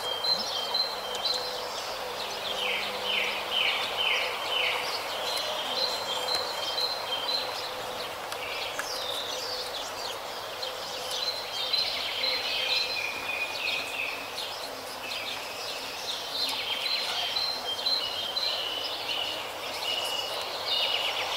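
Small birds chirping and singing over steady outdoor background noise, with short high notes repeating throughout and a quick run of five strokes a few seconds in.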